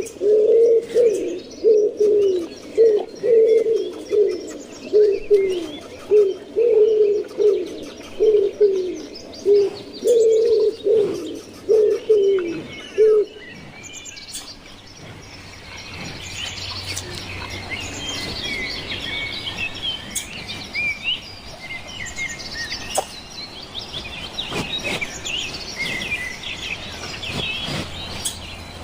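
A pigeon cooing over and over, about a dozen short low coos each dipping in pitch. About halfway through the cooing stops and a crowd of small birds chirps busily.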